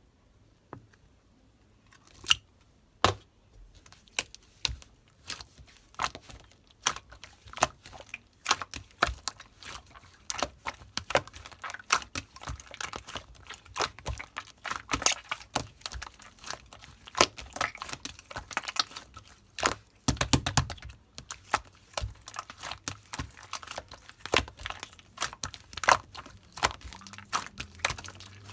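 Hands pressing and squishing pink slime, making irregular crisp pops and clicks. They are sparse at first and come thick and fast from about ten seconds in.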